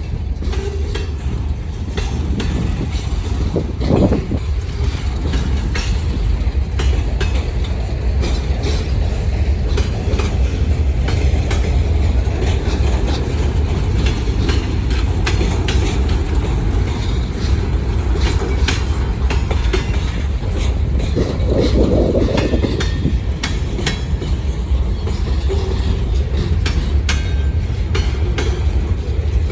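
Freight train rolling past: a steady low rumble with a stream of clicks from the wheels crossing rail joints, and two brief louder swells.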